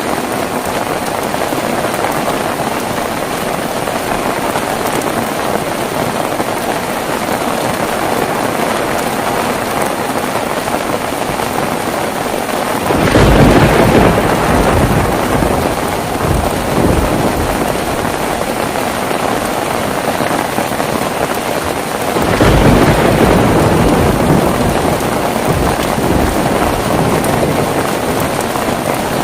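Heavy rain falling steadily, with two claps of thunder, one a little before halfway and one about three quarters of the way through, each rumbling away over several seconds.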